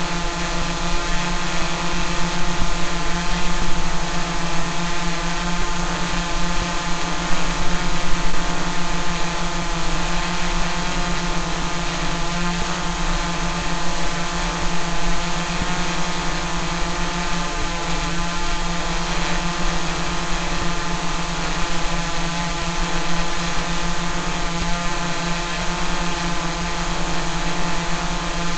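Drone hovering: a steady buzzing hum of its motors and propellers that holds a constant pitch.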